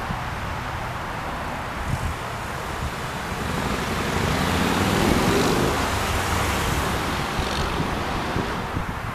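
Wind buffeting the microphone, with a passing vehicle's noise swelling to a peak about five seconds in and fading away.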